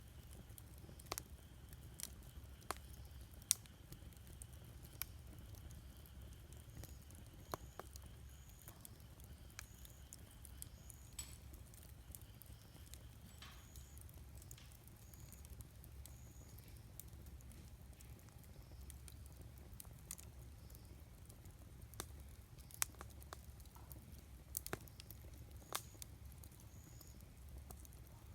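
Wood campfire burning, with irregular sharp crackles and pops over a faint, steady low rumble.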